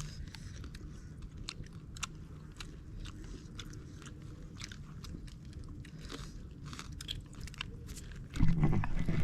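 Close-up chewing and crunching of cooked wild bird meat: many short, irregular crunches and mouth clicks. A louder low rumble comes in near the end.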